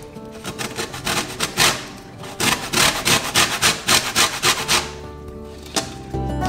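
Orange peel being grated on a hand grater for zest: quick rasping strokes, about four a second, in short runs. Background music comes in near the end.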